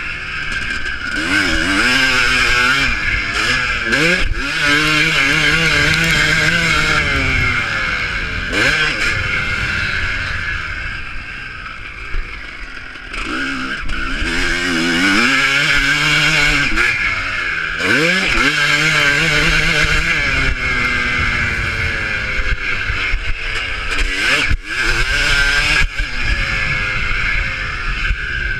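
Motocross bike engines racing, revving up and dropping back again and again as the riders work the throttle and shift gears, over a steady high hiss.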